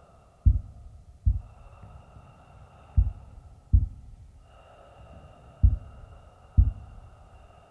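A slow heartbeat sound effect: pairs of low thumps, lub-dub, about every two and a half seconds, over a steady hum.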